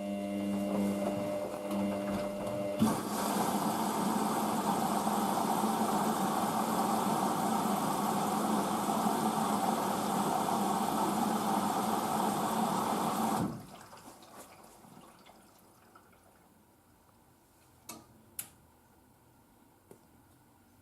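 Hoover VisionDynamic washing machine taking in water: a brief hum, then a steady rush of water pouring in for about ten seconds that cuts off suddenly as the inlet valve shuts, followed by a few faint clicks.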